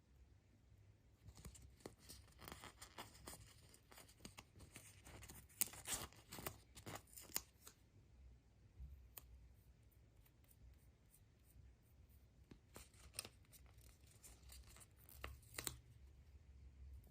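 Faint close-up tearing and crinkling of a surprise egg's wrapper, in two spells of dense crackles: one from about a second in to near the middle, a second shorter one near the end.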